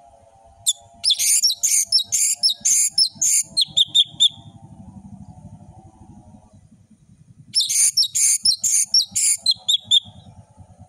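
Orange-headed thrush (anis merah) in full, loud song: two bursts of rapid, varied high notes, the first about a second in and the second near eight seconds, each ending in a short run of repeated whistles.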